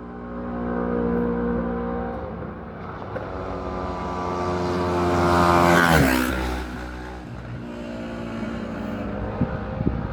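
Racing motorcycle at full throttle approaching, its engine note rising and growing louder, then passing close about six seconds in with a sudden drop in pitch as it goes away.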